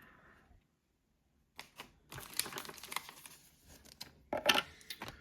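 Trading cards and their packaging being handled: light clicks and crinkling start about a second and a half in, with a louder crinkle about four and a half seconds in.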